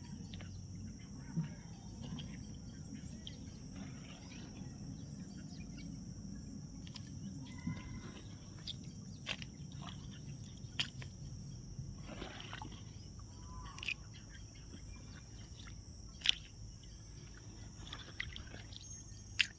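Outdoor ambience: a steady high-pitched insect drone, with a few short bird chirps and scattered faint clicks.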